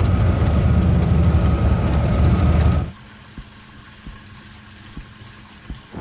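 Motorcycle engine running with a loud, deep rumble that cuts off abruptly about three seconds in, leaving a much quieter background with a faint steady hum and a few light clicks.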